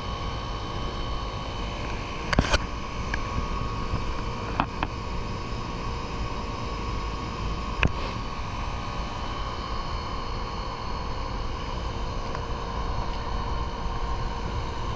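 Rooftop HVAC unit running with a steady mechanical hum. A few short, sharp knocks come through it, around two, five and eight seconds in.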